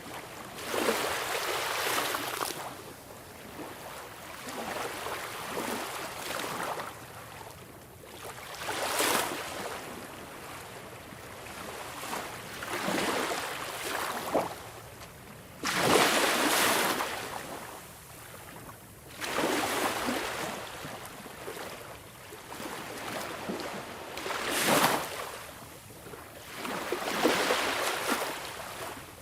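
Sea waves breaking and washing in, a rushing noise that swells and falls back every few seconds, with several stronger surges.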